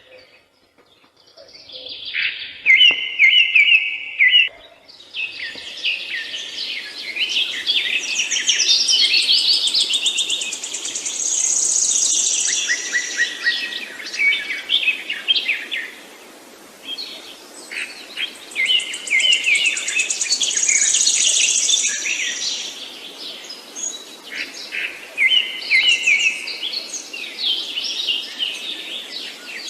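Several birds chirping and singing together, a dense chorus of quick, high, repeated notes that is thinner for the first couple of seconds, over a steady low background hiss.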